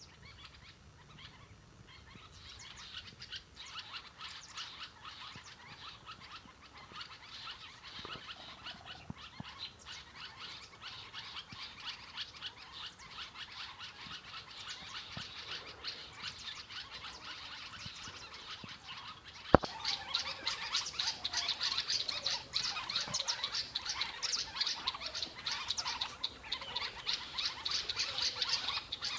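Dense, rapid high-pitched chattering of birds, a fast run of short clicking notes. It grows busier, and after a sharp click about two-thirds in it is louder.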